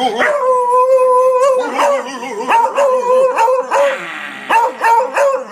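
A dog howling: one long held note lasting over a second, then a run of short yipping howls and barks.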